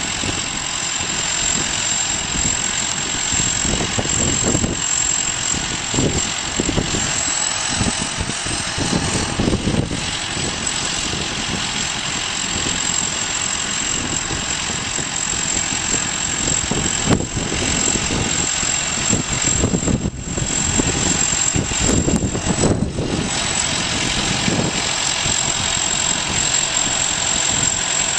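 Harvest-time farm machinery running steadily: a diesel engine's continuous drone with a steady high-pitched whine on top.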